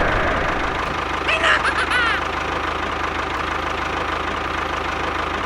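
Engine idling steadily with a fast, even chug, like a small tractor's motor, with a brief squeaky chirping about one and a half seconds in.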